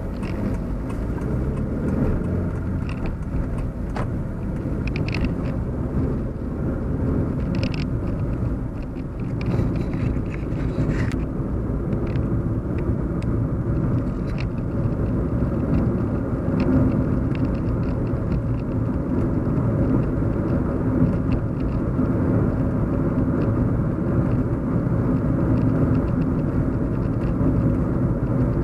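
Steady low road and engine hum inside a moving car's cabin, with a few faint brief ticks and short higher-pitched sounds.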